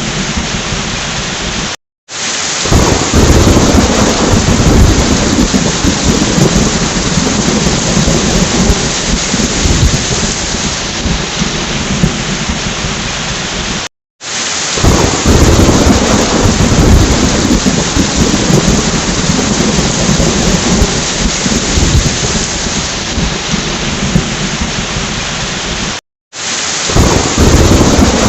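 Steady heavy rain with rolling thunder. The sound cuts out to silence for a moment three times, about twelve seconds apart, and a deep rumble of thunder swells up after each break.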